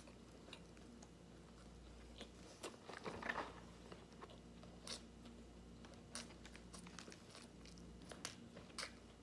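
A person biting into and chewing a fried chicken sandwich: faint, scattered mouth clicks with a denser patch of chewing noise about three seconds in.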